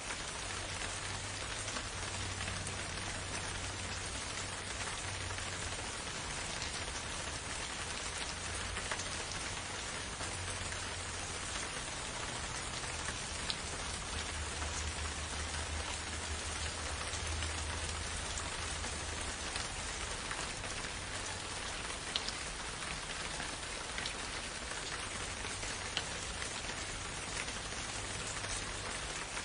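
Steady rain falling in a forest, pattering on leaves and surfaces, with occasional louder individual drops and a faint low rumble underneath.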